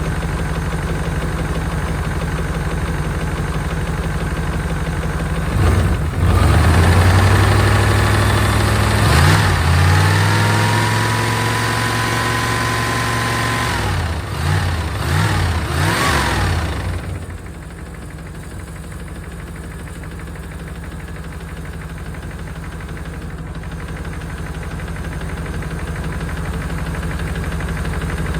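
1992 Chevrolet Caprice wagon's V8 idling, revved up about six seconds in and held high for several seconds, blipped a few times, then dropped back to a quieter idle about two-thirds of the way through. It carries a noise the owner can't place: he fears a bearing but hopes it is something that will quiet down, later suspecting the rocker arms.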